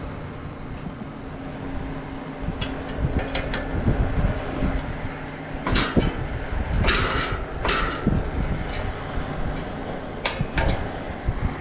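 Sharp metallic clanks and scrapes of hand work on an outdoor AC condenser unit, clustered about halfway through and again near the end, over a steady hum and wind on the microphone.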